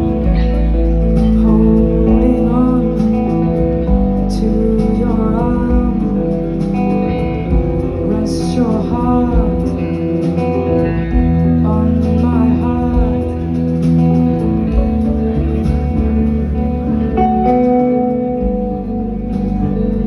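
Live band playing an instrumental passage of the song: guitar over a heavy bass, with a sliding melody line above it.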